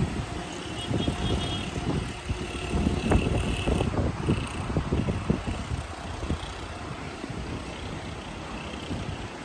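Strong wind gusting and buffeting the microphone with a low rumble, heaviest in the first half and easing to a steadier blow after about six seconds.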